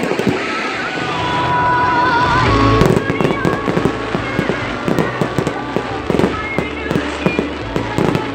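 Aerial fireworks bursting overhead: a quick, dense run of bangs and crackles starting about three seconds in.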